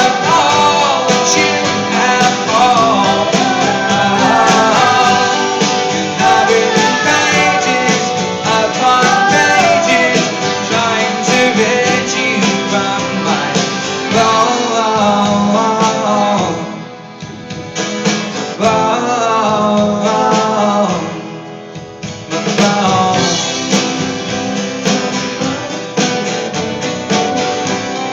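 Live band music with acoustic guitar and singing, as heard through a phone's microphone in a concert hall. The music thins out briefly twice, about two thirds of the way through.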